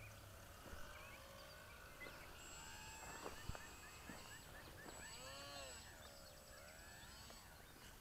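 Faint birdsong over quiet open-air ambience: scattered short chirps, with a longer warbling, arching call about five seconds in.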